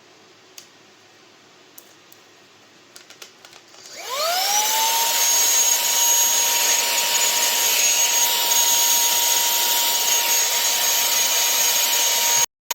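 A few faint clicks, then about four seconds in the TEMOLA cordless handheld vacuum's brushless motor spins up with a rising whine and runs steadily: a high whine over loud rushing air. It cuts off abruptly near the end.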